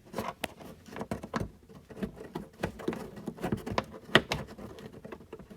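Irregular clicks, taps and knocks of hands handling fasteners and parts while screws are refitted on a car's rear bumper, with one sharper knock about four seconds in.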